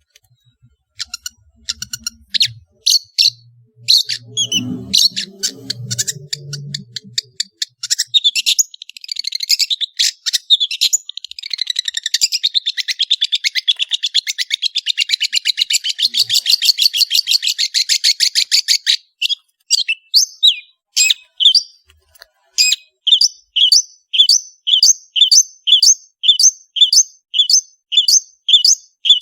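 Long-tailed shrike singing, a mimic's varied song: scattered sharp notes, then a long fast chattering run, then in the latter part the same short call repeated evenly about once a second.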